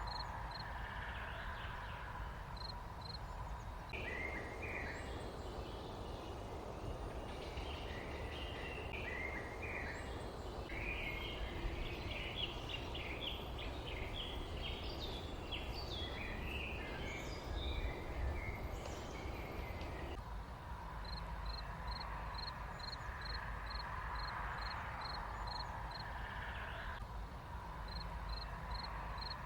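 Rural outdoor ambience of small birds chirping over a steady low background hiss. A busy stretch of overlapping chirps runs from about 4 s to about 20 s in. Before and after it, a single high, evenly repeated call comes about twice a second.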